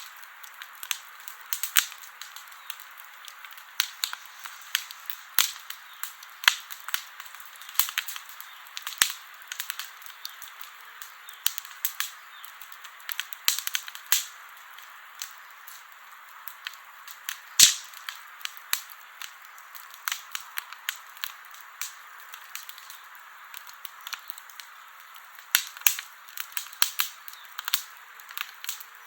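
Campfire crackling: irregular sharp pops and snaps over a soft steady hiss, with one especially loud pop a little past the middle.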